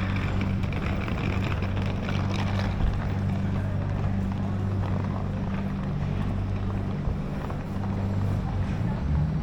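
Street ambience dominated by a vehicle engine running close by, a steady low hum over general traffic noise. The hum weakens about seven seconds in.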